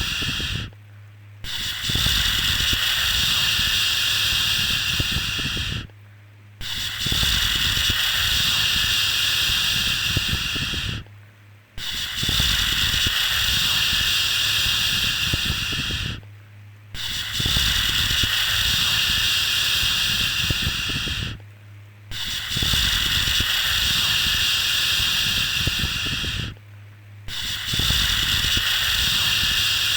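A long 'shhh' shushing sound for soothing a baby, repeated in a loop: each shush lasts about four and a half seconds, followed by a pause of under a second, about six times over. A faint low hum runs beneath it.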